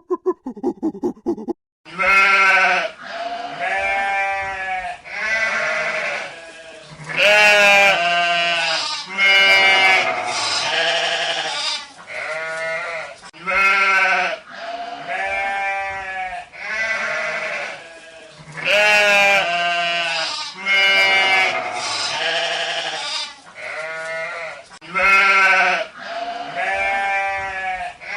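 Sheep bleating, one call after another, some overlapping as from several animals, starting about two seconds in.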